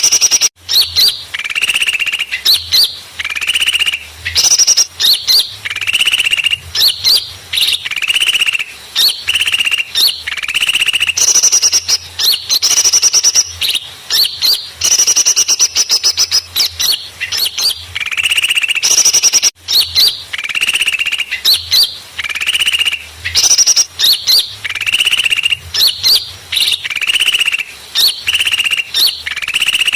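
Recorded small-bird lure call played back: loud, rapid chirping and twittering phrases repeated over and over with short pauses, used to draw small songbirds in for trapping.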